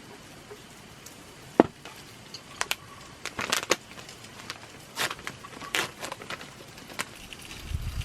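Cooking clatter: a dozen or so sharp clicks and knocks of utensils on cookware, the loudest about a second and a half in, over a faint crackling sizzle.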